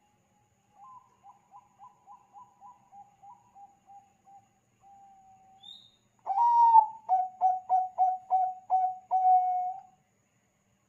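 Zebra dove (perkutut bangkok) cooing: a faint run of quick, evenly spaced coos, then, about six seconds in, a loud song that opens on a drawn-out note, runs into about seven rapid coos and ends on a held note.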